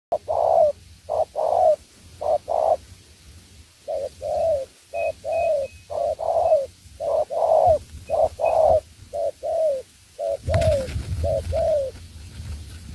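Spotted dove cooing over and over in short phrases of two or three coo notes. Faint chirps from a small bird come in the middle, and a low rumble starts near the end.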